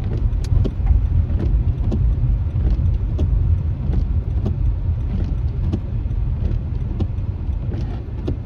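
Car driving in the rain, heard inside the cabin: a steady low road rumble with irregular sharp ticks, a few a second, of raindrops striking the windshield.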